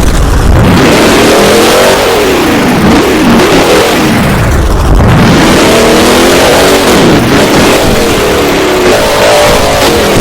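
Monster truck's supercharged V8 engine, very loud, revving up and falling back again and again as the truck is driven hard.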